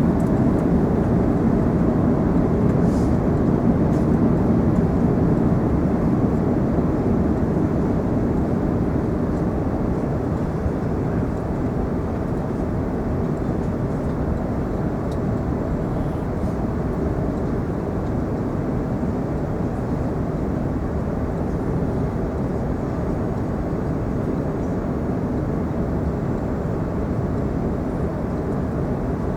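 Airbus A380 cabin noise: a steady low rush of engine and airflow through the fuselage, easing a little over the first ten seconds and then holding level.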